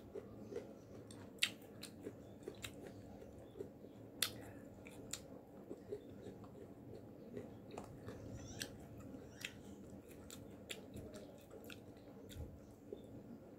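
Close-up chewing of young mango rujak in spicy sauce: quiet, scattered wet mouth clicks and crunches, a few a second, with brief pauses.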